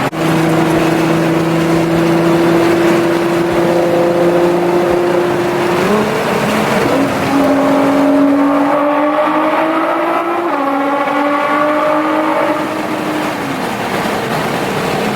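Nissan GT-R R35's twin-turbo V6 under hard acceleration, its note climbing slowly through the gears with an upshift about seven seconds in and another about ten seconds in, then easing off near the end.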